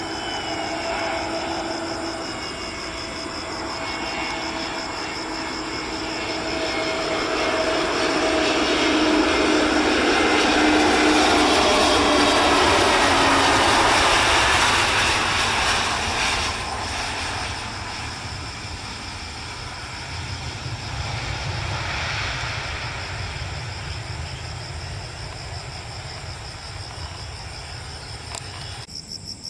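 Airbus A320neo jet airliner passing on its landing approach: a whine falling slowly in pitch over a broad jet noise that swells to its loudest about halfway through, then fades to a low rumble as it rolls out. Crickets chirp steadily in the background.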